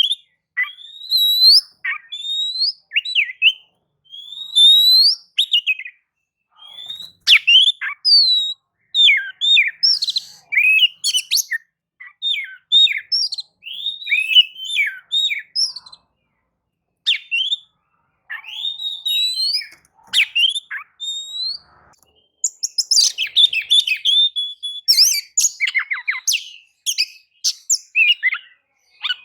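Oriental magpie-robin singing in full song: loud, varied whistled phrases of rising and falling notes separated by short pauses, turning to a rapid run of dense, chattering notes for the last several seconds.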